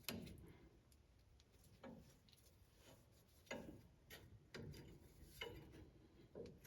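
Near silence broken by faint, scattered clicks and light knocks, about six in all at irregular intervals, from small parts and hand tools being handled during the sway bar link repair.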